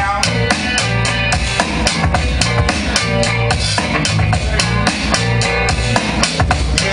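Live hip hop band playing an instrumental passage with no vocals: a drum kit with a steady beat of regular kick and snare hits under guitar and bass.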